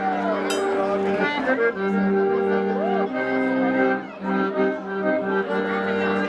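A live band playing, with held chords and notes; the music dips briefly about four seconds in.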